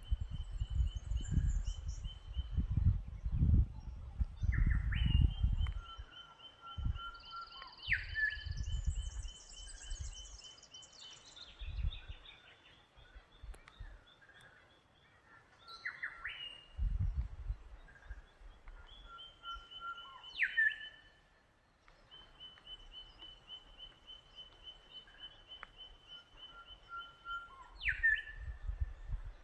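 Birds singing in farm ambience. One bird repeats a phrase about three times: a long steady whistled note, then a sudden sharp sweep and a lower note. Low rumbling noise, loudest in the first six seconds, comes and goes beneath the song.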